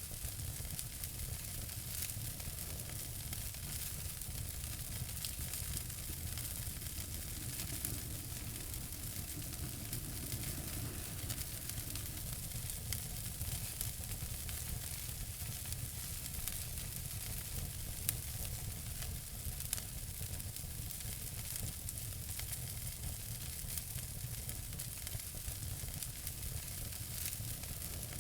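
Wood fire burning in a fireplace: a steady hiss with many small crackles and pops, one sharper pop about 18 seconds in.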